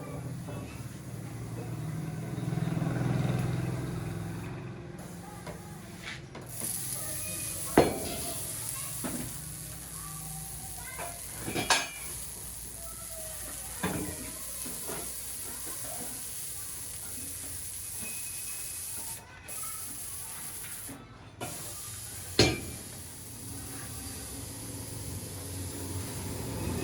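Workshop noise: a steady hiss with several sharp metal knocks, the loudest about 8, 12 and 22 seconds in.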